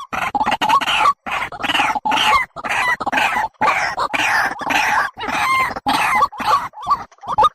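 Bird calls in a rapid, unbroken series of short pitched notes, with brief gaps between them, played as a lure sound for trapping birds.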